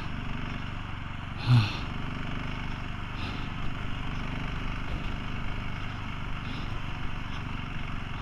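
Motorcycle engine running steadily while riding, under a steady rush of noise, with one short, louder blip about a second and a half in.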